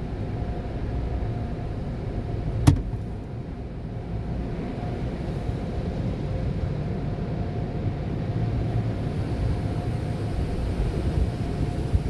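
Steady low rumble of a car wash tunnel in operation, with a faint steady hum above it. A single sharp knock comes about two and a half seconds in.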